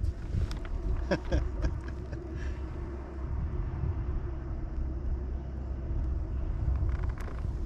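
Wind rumbling on the microphone, with a few sharp clicks and knocks in the first couple of seconds.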